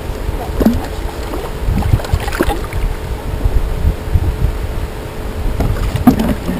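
Wind buffeting the microphone and water moving around a kayak, a loud uneven low rumble, with scattered small knocks and clicks of gear being handled aboard.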